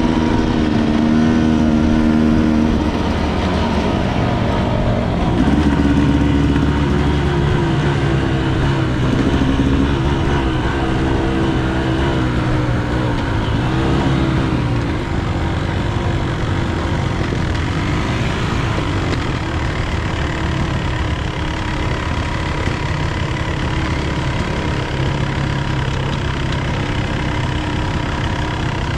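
Enduro dirt bike engine running while being ridden, its pitch rising and falling with the throttle.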